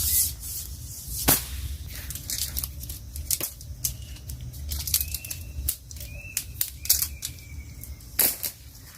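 Irregular sharp clicks and knocks, several a second, over a steady low rumble.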